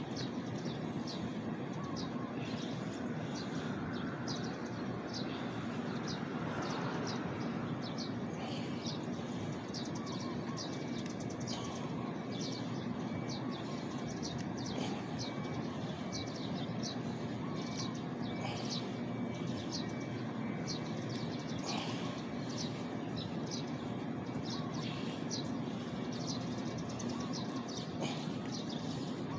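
Birds chirping: short, high calls repeating about twice a second, over a steady background rumble.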